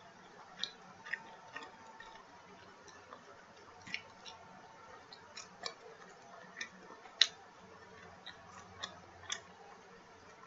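Close-miked mouth sounds of someone chewing pizza crust: soft, irregular wet clicks and small crunches, one sharper click about seven seconds in.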